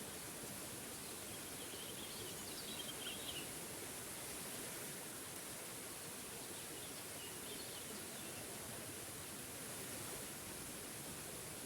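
Waterfall running with a steady, even rush of water. Faint bird chirps come about two to three seconds in and again around seven seconds.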